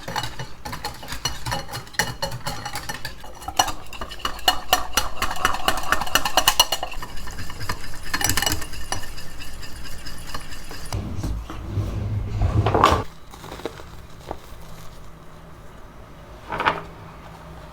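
A utensil clinking and scraping rapidly against a bowl or dish in a kitchen for several seconds, with scattered clinks later. About eleven seconds in, a low rumble swells for two seconds and cuts off suddenly.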